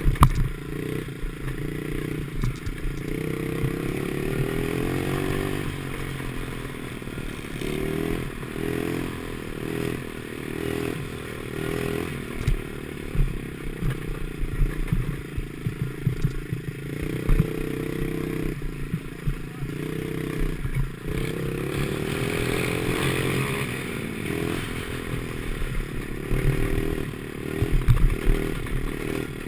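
Ten10 50cc pit bike engine being ridden, its pitch rising and falling over and over as the throttle is opened and closed, with many knocks and rattles.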